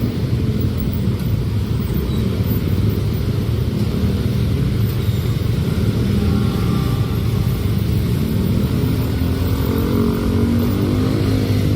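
Diesel train passing: a steady low engine drone and rumble, with higher engine tones coming in near the end.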